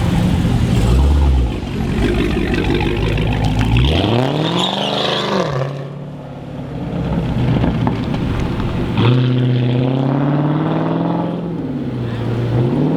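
A V8 car engine accelerating hard: its note climbs steeply about four seconds in and falls back, then holds steady from about nine seconds in before dropping and climbing again near the end.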